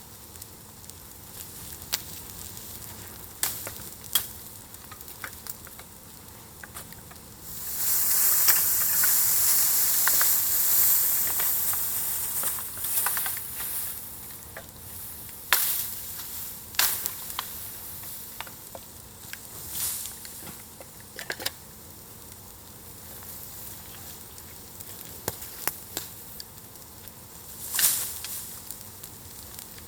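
Bonfire of fresh fuel on glowing embers, crackling with scattered sharp pops. About eight seconds in it flares into a loud hiss that lasts about five seconds and then dies back to crackling.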